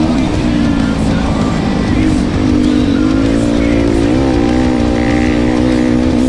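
Yamaha YZ250F dirt bike's single-cylinder four-stroke engine running under way, its pitch rising and falling with the throttle, with wind buffeting the on-board microphone.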